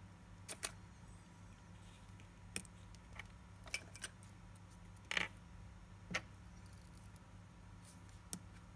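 Light, sparse metallic clicks and taps of watchmaker's tools handling the parts of a Mido Cal. 1117 automatic watch movement. There are about nine of them at uneven intervals, and the loudest is a short clatter about five seconds in.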